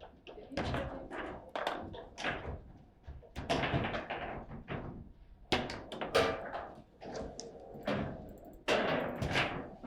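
Table football in play: irregular knocks and thuds as the ball is struck by the player figures and bangs against the table.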